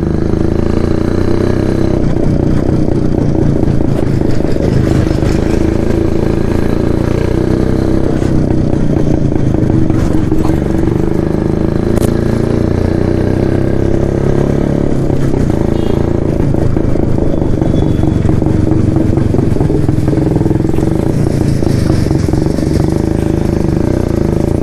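1972 Jawa 250 cc single-cylinder two-stroke motorcycle running steadily under way, its exhaust note coming through twin silencers.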